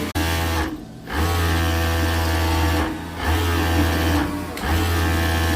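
Electric sewing machine running in spurts: it stops briefly between runs, giving four runs in all. The machine is making a strange noise that is being demonstrated.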